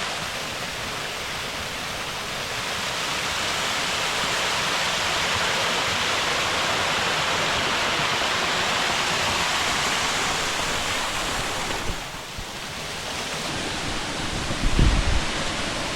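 Waterfall: a steady rush of falling water. It drops away briefly about twelve seconds in, and near the end a low buffet of wind hits the microphone.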